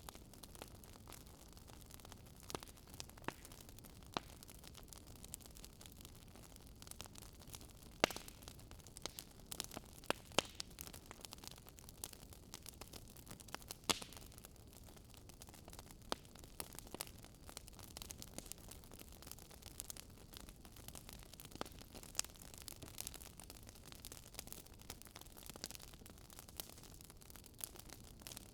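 Wood fire crackling: irregular sharp pops and snaps over a steady low hiss, with a few louder pops scattered through.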